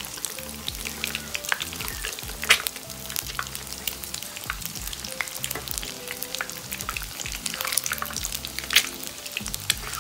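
Whole hard-boiled eggs deep-frying in hot oil in a wok: a steady crackling sizzle of many small pops as spatulas turn them. Two louder sharp cracks stand out, one about two and a half seconds in and one near the end.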